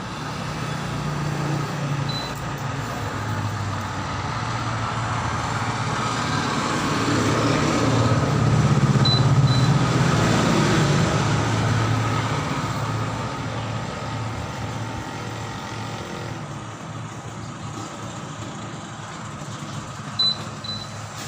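Road traffic: a motor vehicle's engine grows louder, is loudest about halfway through, then fades as it passes.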